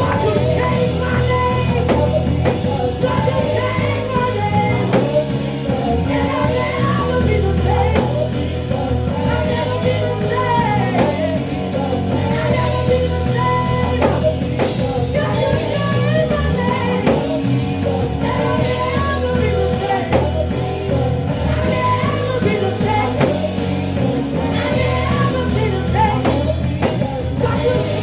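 Live gospel praise band playing an upbeat worship song with drums and bass, with voices singing along.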